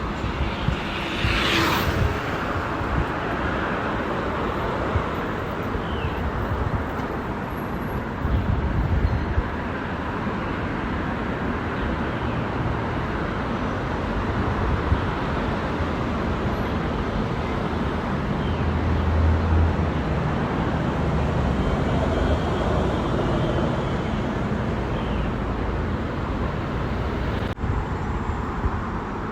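Steady outdoor road noise heard from a moving bicycle, with motor traffic passing and low rumbles swelling twice.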